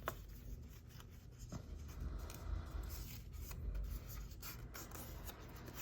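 Paper being folded over and creased by hand: soft rustling and rubbing of the paper, with a couple of light clicks.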